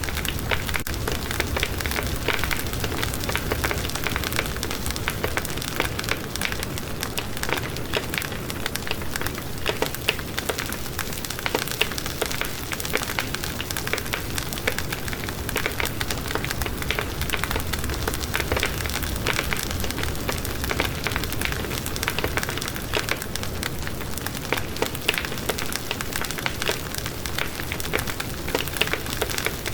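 Wood fire burning steadily with dense crackling and popping over a low rumble of flame.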